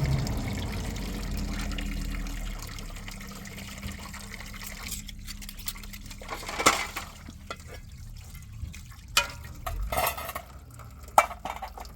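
Water pouring or running, fading out over the first few seconds, followed by a few scattered knocks and clinks.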